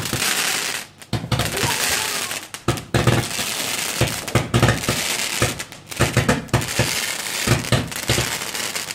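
Ground-mounted firework burning: a continuous hiss with irregular crackles and pops that surge and fade.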